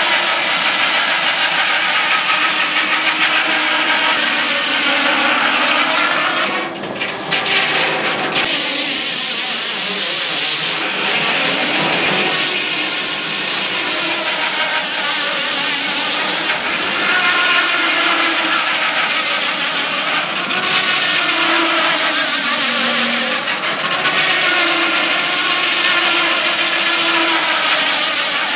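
Sawmill running at a steady, loud level, with its engine and machinery going continuously and a brief drop in level about seven seconds in.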